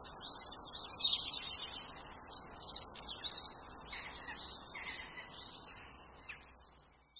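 Small birds chirping and twittering in quick, high-pitched calls over a faint hiss, thinning out and fading away toward the end.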